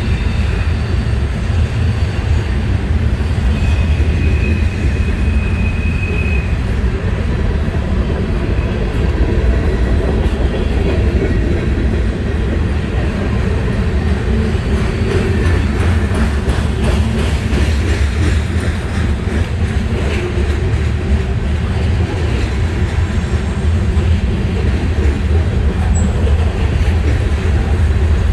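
Freight cars of a mixed manifest train rolling past: a heavy steady rumble of steel wheels on rail, with a brief high squeal about four seconds in and a stretch of quick clacking over the rail joints in the middle.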